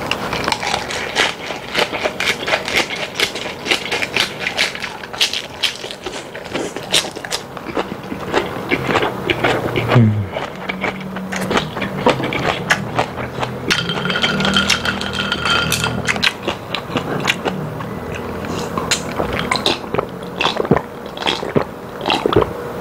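Close-up crunching and wet chewing of a napa cabbage-leaf wrap filled with spicy fire-grilled beef tripe (makchang), with many crisp crackles as the leaf breaks. From about ten to sixteen seconds in comes a hummed 'mmm' of enjoyment through closed lips, rising and falling in pitch.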